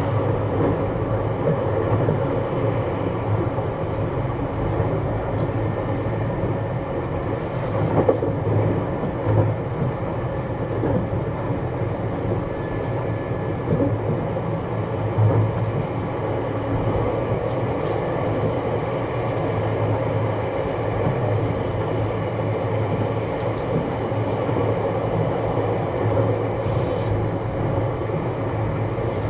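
Onboard running sound of a JR West 321 series electric train, heard from inside a motor car with Toshiba traction equipment: a steady rumble of wheels on rail and motors, with scattered rail-joint clicks.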